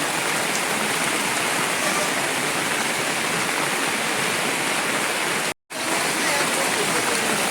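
Heavy, steady rain: a dense, even hiss of downpour. It cuts out for an instant a little before six seconds in, then carries on.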